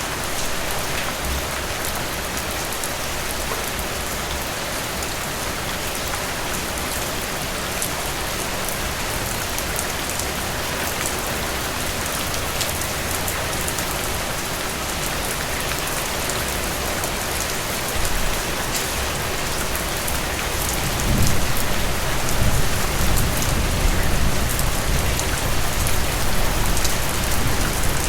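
Heavy rain falling steadily, an even hiss dotted with many fine drop ticks. About two-thirds of the way through, a low rumble swells underneath and the sound grows louder.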